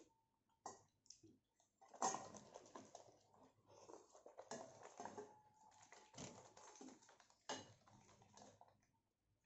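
Faint, close-miked eating sounds: chewing and wet mouth clicks coming in several bursts, with a few scattered clicks at first.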